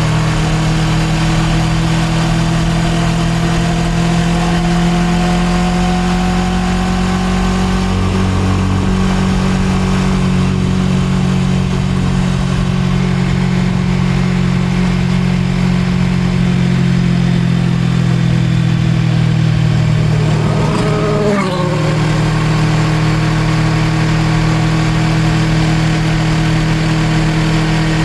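Suzuki GSX250R's parallel-twin engine running while riding, heard from the bike: the engine note creeps slowly up over the first several seconds, then holds steady. About 21 seconds in the note briefly jumps and drops, as at a gear change.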